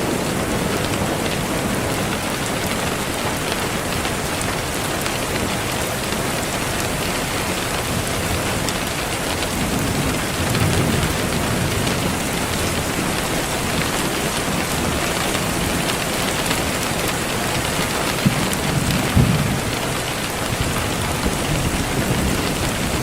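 Steady rain, with low rolls of thunder rumbling about halfway through and again a few seconds later.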